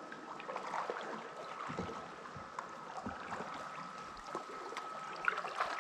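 Kayak paddles dipping and water dripping: small splashes and knocks echoing in a flooded mine chamber, over a faint steady high tone.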